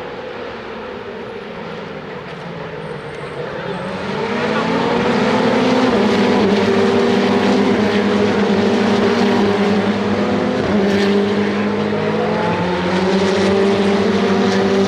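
Ferrari Challenge race car engines running at speed, growing louder about four seconds in. Their pitch rises, then dips and climbs again several times.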